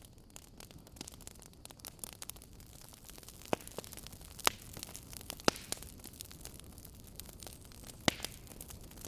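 Wood fire crackling in a fireplace: irregular sharp pops and snaps over a low steady hiss, with a few louder pops about three and a half, four and a half, five and a half and eight seconds in.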